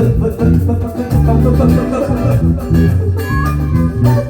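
Live funk band playing an instrumental passage: bass guitar holding low notes in a repeating pattern under guitar.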